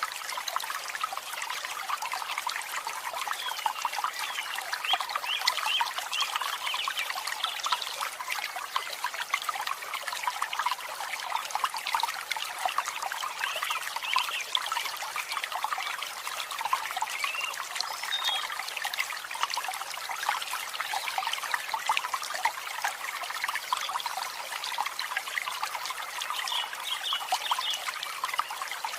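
Dense, continuous chattering of a large flock of birds, a mass of overlapping short chirps and calls with higher chirps standing out now and then.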